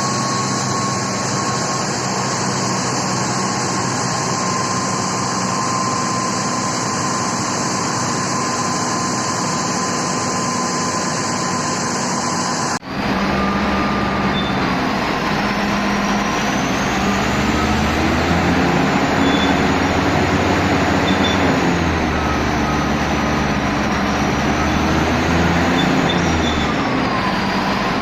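Heavy diesel engine of large earthmoving machinery running steadily; about halfway through the sound cuts abruptly to another engine whose speed rises and falls as it is worked, over a deep low rumble.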